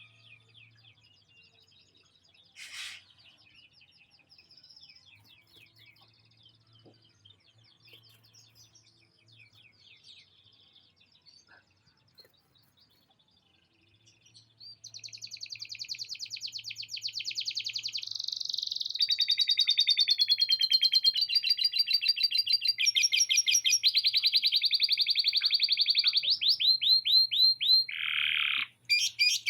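Canary singing: faint scattered chirps at first, then, about halfway in, loud song of long, very fast trills and rolls that change phrase every few seconds, with a quick falling run of notes near the end. The bird is a canary that has been tutored with lovebird song phrases.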